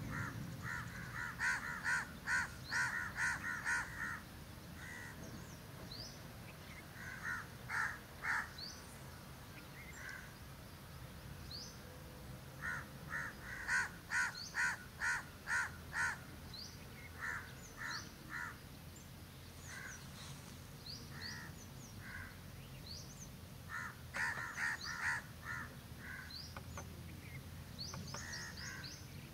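Birds calling: runs of four to eight short, rapid calls, about three a second, repeated several times, with brief high chirps from small birds in between.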